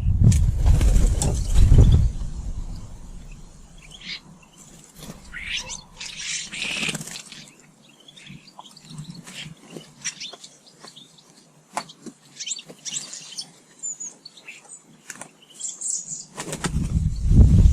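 Garden birds chirping and calling, with a harsher, noisier burst of calling about six seconds in. Low rumbling comes at the start and again near the end.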